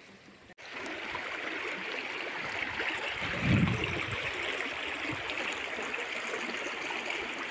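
River water rushing steadily, starting abruptly about half a second in. A brief low thump comes about three and a half seconds in.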